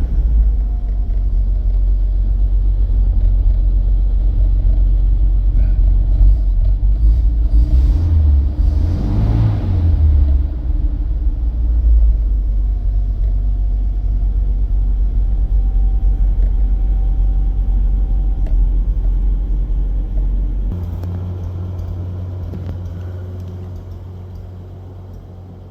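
1948 Studebaker M5 pickup's Champion 169 cubic inch flathead six running as the truck drives: a steady low rumble with a brief swell about nine seconds in, fading out near the end.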